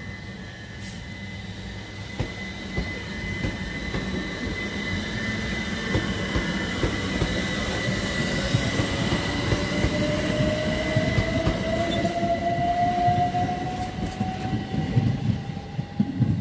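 Train moving along the track, growing steadily louder, with a steady high whine throughout. A second whine climbs in pitch from about six seconds in, over a dense rumble and irregular clatter of wheels on the rails.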